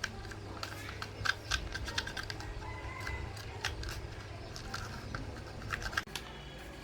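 Irregular sharp clicks and taps, a few louder than the rest, over a steady low hum.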